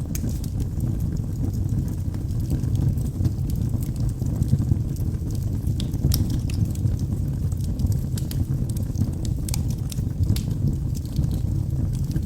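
Log fire burning in a fireplace: a steady low rumble of flames with scattered sharp crackles and pops from the burning wood.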